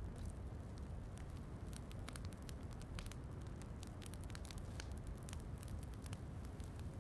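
Wood fire crackling in a fireplace, with frequent sharp pops and snaps over a steady low rumble, mixed with soft falling rain.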